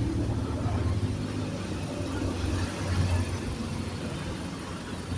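City bus engine running as the bus moves past at low speed, a steady low rumble that swells briefly about three seconds in.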